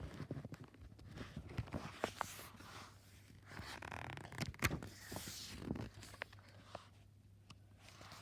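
Paper rustling and scraping with several light clicks and knocks: the pages of a picture book being turned and handled.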